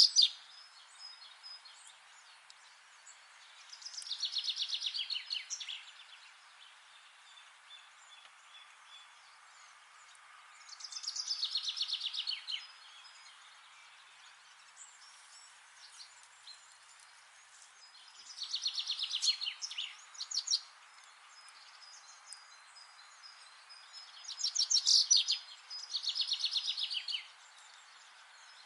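A songbird singing short, fast trilled phrases, each a rapid run of notes that falls in pitch, repeated about every six seconds. The last two phrases come close together. A faint steady hiss of outdoor background noise runs underneath.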